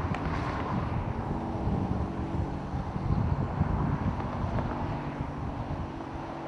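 Distant Boeing 787-8 jet engines running with a steady faint hum, buffeted by wind on the microphone.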